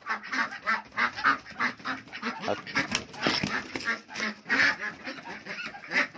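Several domestic ducks quacking over and over in short, quick calls.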